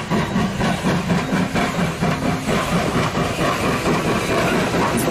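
Train sound effect: a train running with a steady rumble and a regular clickety-clack rhythm.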